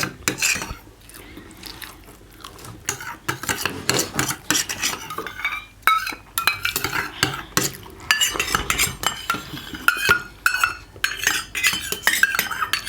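Cutlery clinking and scraping against plates and bowls while eating, a dense run of irregular short clicks and clinks.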